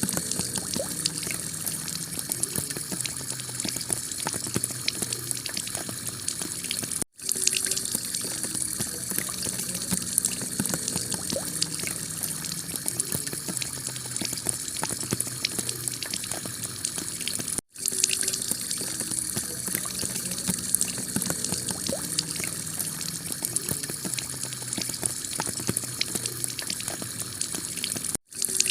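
Heavy rain falling on a tiled roof: a steady, dense hiss of drops that cuts out for an instant three times, about every ten and a half seconds, where the recording loops.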